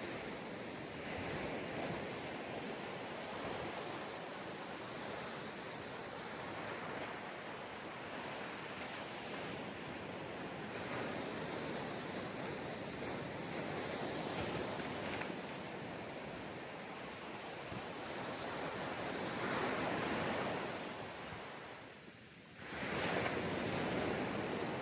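Sea waves surging and washing on a beach, a continuous surf wash that swells in places. Near the end it briefly drops away, then comes back suddenly.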